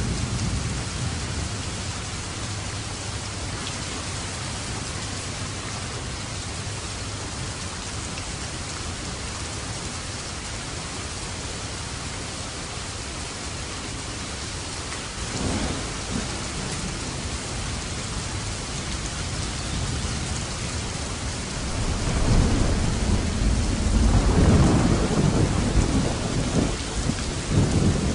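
Steady heavy rain with thunder: a brief low rumble about halfway through, then a longer, louder rolling rumble from about 22 seconds to the end.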